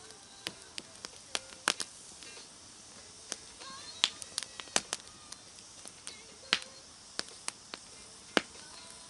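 Campfire wood crackling, with irregular sharp pops and snaps, some much louder than others.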